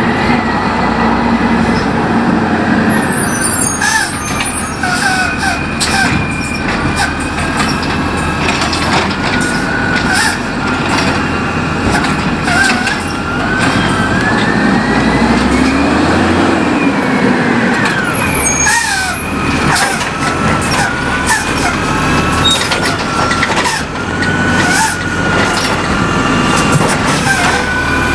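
Wayne Curbtender recycling truck running, with a steady engine under wavering high squeals and whines and scattered clanks and clatter.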